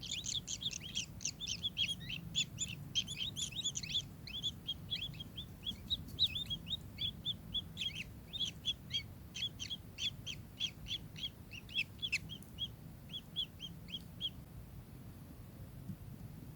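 Kingfisher calling: a long, fast run of short, high, sharp chirping notes, several a second, which stops near the end.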